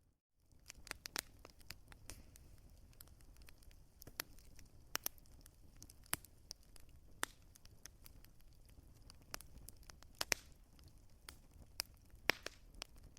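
Wood fire crackling: irregular sharp pops and snaps of burning logs over a low steady rumble and hiss. The sound drops out for a moment right at the start, then resumes.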